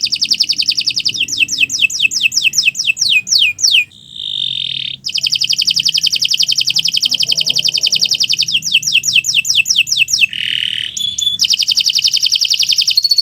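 Domestic canary singing a long, unbroken song: fast trills of rapidly repeated notes alternate with runs of downward-sweeping notes. A brief held note breaks in about four seconds in, and a short rasping note about ten seconds in.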